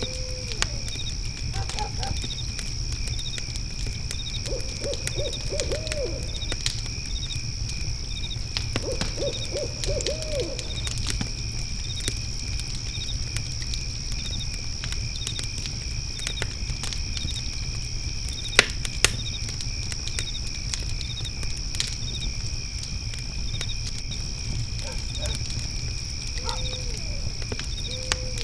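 Fire pit crackling, with scattered pops and two sharper snaps about 18 to 19 seconds in, over steady cricket song: continuous high trilling and a repeating chirp about once a second. A low hoot sounds at the start and another near the end, and two short quavering series of calls come around 5 and 10 seconds in.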